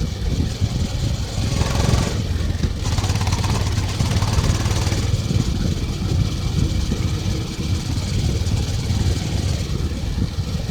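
Honda CB350 motorcycle engine and exhaust running steadily under way, with wind and road noise over it. A short swell of rushing hiss comes about two seconds in.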